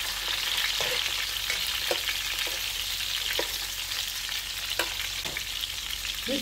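Stuffed whole squid rolls frying in a shallow film of oil in a nonstick frying pan: a steady sizzle with a few scattered crackles.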